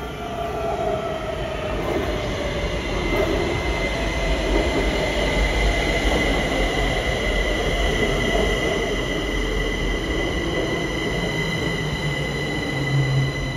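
Kaohsiung Metro high-capacity electric multiple-unit train pulling into the station and slowing. The rumble of wheels on rail gets louder about two seconds in, with a steady high-pitched squeal over it.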